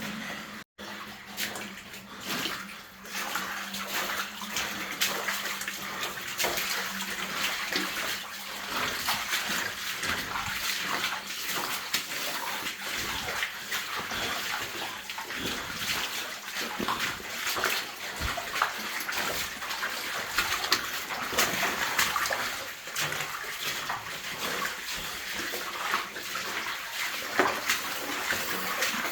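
Water splashing and sloshing irregularly as people wade through shallow water in a narrow cave.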